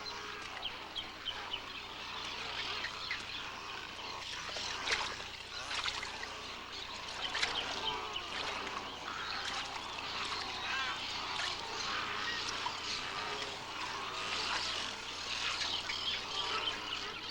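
A dense chorus of many birds calling at once, with short overlapping calls that never let up.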